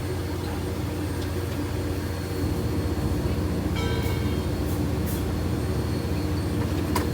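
Steady low engine rumble of an idling train. A brief high tone sounds about four seconds in, and there is a sharp click near the end.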